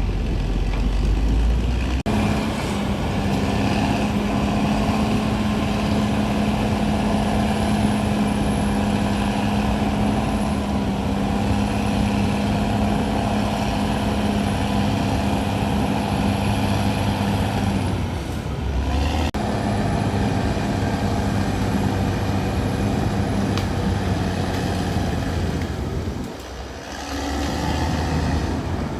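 Caterpillar D6R XL bulldozer's diesel engine running with a steady drone. The sound dips briefly about two-thirds of the way through and again near the end.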